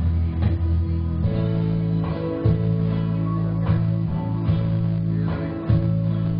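Live music: strummed acoustic guitars over a steady bass line, with regular strokes and no singing in this stretch.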